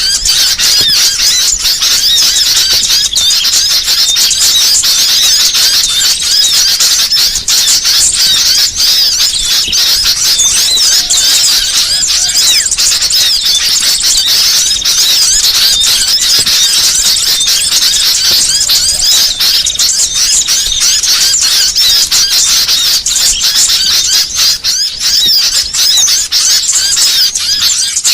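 Many small songbirds chirping and twittering at once in a dense, unbroken, high-pitched chatter.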